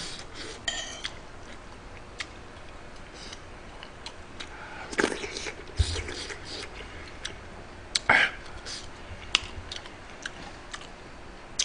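A man chewing and smacking his lips as he eats, close to the microphone, with a few sharp clicks of a metal spoon against the dishes scattered through it.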